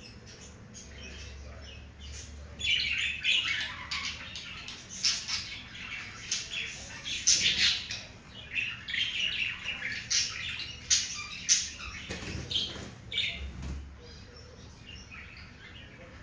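Budgerigars chirping and chattering in quick, busy bursts of high squeaky notes, starting about two seconds in and easing off near the end, typical of a pair courting and mating. A low rumble sits under the opening seconds.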